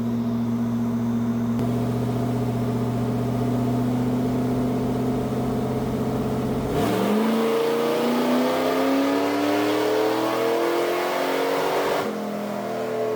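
Race car engine running on a dyno during break-in: steady at first, then about seven seconds in its revs climb smoothly for about five seconds before dropping back.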